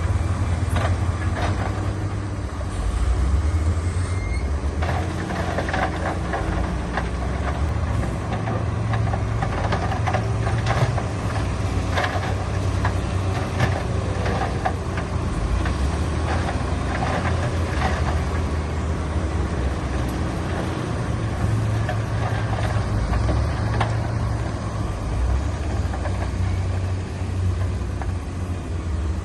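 Diesel engines of heavy earthmoving machinery running steadily under load, with repeated knocks and clanks through the middle stretch.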